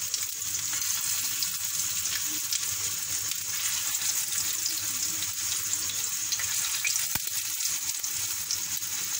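Potato-and-chicken kebab patties shallow-frying in hot oil on a flat tawa: a steady sizzle with fine crackling and spitting as more patties are laid into the oil.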